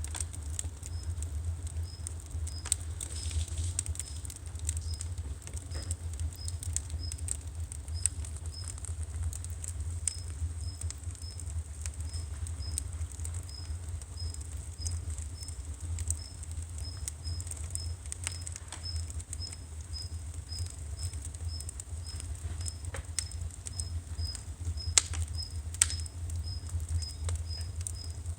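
Firewood burning: wood crackling with scattered sharp pops over a steady low rumble, with a couple of louder pops near the end.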